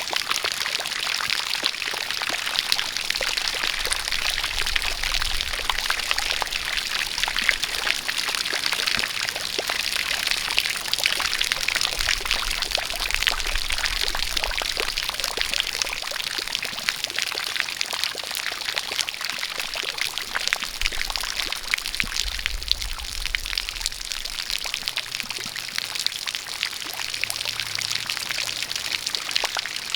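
A jet of water pouring and splashing steadily in the rain: an even hiss packed with small drop ticks.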